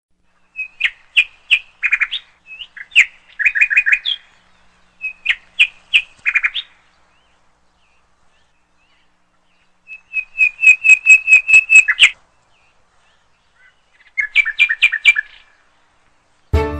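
A bird calling in short runs of sharp, quick chirps with pauses between them; the longest run, about ten notes in two seconds, comes a little past the middle.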